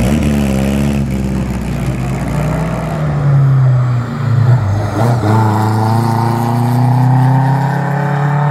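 Simca 1000 Rallye cars' rear-mounted four-cylinder engines: a quick rise in revs near the start, then about halfway through an engine accelerating, its pitch climbing steadily over the last few seconds.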